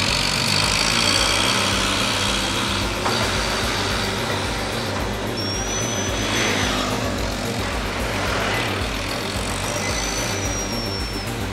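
Heavy truck engine running steadily with a low rumble. Two thin high whistling tones come about five and nine and a half seconds in, each lasting a second or two.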